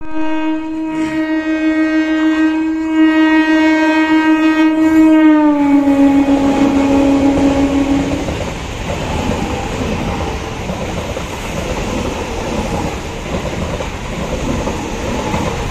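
Eastern Railway EMU local train passing at speed: one long horn blast that drops slightly in pitch about five seconds in as the train goes by, cutting off about eight seconds in, then the steady rumble and rattle of the coaches' wheels on the track.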